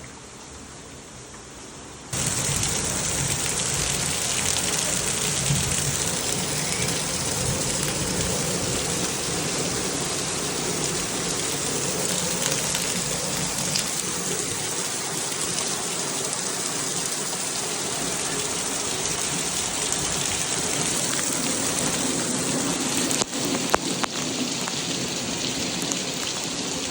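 Heavy rain falling in a steady hiss, fainter for the first two seconds and then suddenly much louder. A few sharp knocks stand out about three-quarters of the way through.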